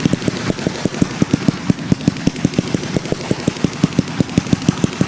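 A fireworks barrage firing shot after shot in rapid succession, about eight or nine a second, over a continuous crackling hiss.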